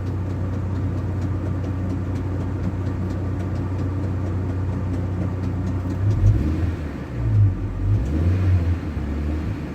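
ZMZ-405 four-cylinder petrol engine of a GAZ van idling with a light repeated ticking, the 'тык-тык-тык' the owner links to the upper timing chain and its hydraulic tensioner. From about six seconds in, the engine speed rises and falls unevenly as it is revved.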